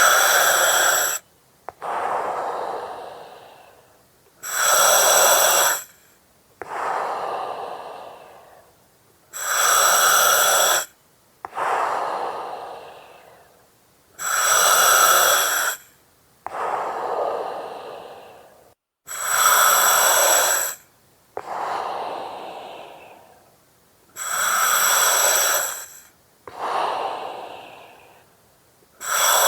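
Slow, steady breathing through an oxygen mask with a regulator hiss, about one breath every five seconds. Each breath is a loud, sharp hiss followed by a softer breath that trails off.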